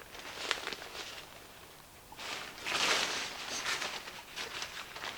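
Hands working small plastic parts and the inflatable's fabric: scattered light clicks and ticks, with a louder rustle about three seconds in.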